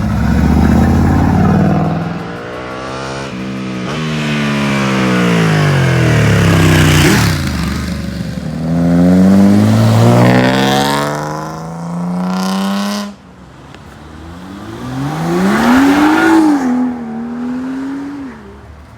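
Sports car engines revving and accelerating hard as the cars pull away, the pitch climbing and dropping several times with gear changes and passes. The sound cuts off abruptly about two-thirds of the way through. Near the end another car rises to a peak and then falls away.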